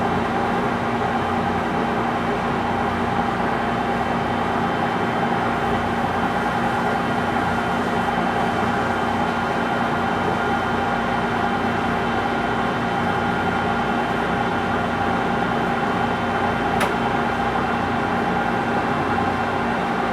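Lathe running steadily while turning a large bearing part, a constant hum with a steady whine over it. A single sharp click near the end.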